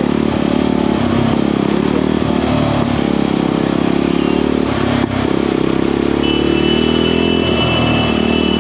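Motorcycle engine running steadily under way, heard from the bike being ridden, with road and wind noise. From about six seconds in, a steady high-pitched tone sounds over it.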